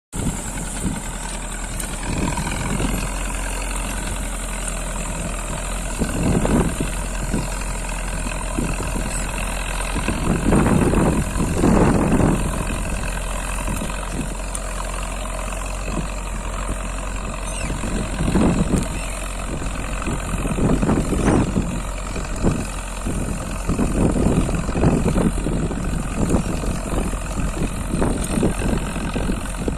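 Zetor 7211 tractor's four-cylinder diesel engine running steadily, with several louder swells lasting about a second.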